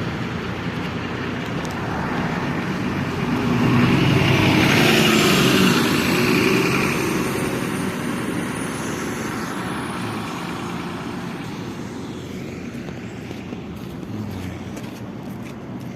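Trolleybus on the move: steady road and running noise that swells about four seconds in and then eases. A thin high-pitched electric whine rises as it gets louder and then slowly falls away.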